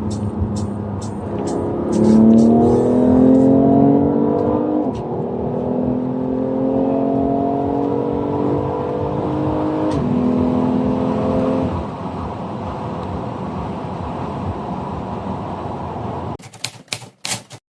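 BMW M2 Competition's twin-turbo inline-six accelerating hard from low speed. The engine note climbs through the gears, with a sharp drop in pitch at each of two upshifts, then eases to a steadier cruise about twelve seconds in. Several sharp clicks come near the end.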